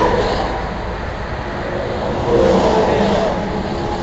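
Roadside traffic noise: vehicles passing on the highway, a steady rumble and hiss that swells a little about two seconds in as one goes by.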